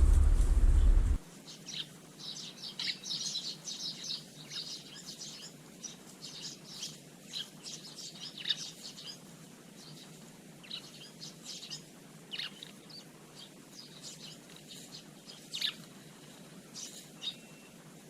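Eurasian tree sparrows chirping, many short high calls overlapping at first and thinning out later. A loud low rumble fills the first second or so and cuts off suddenly.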